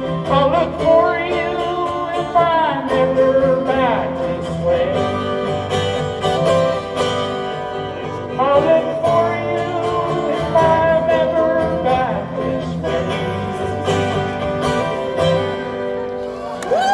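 Live country-folk band music recorded from the audience: strummed acoustic guitar with a melody line that bends in pitch.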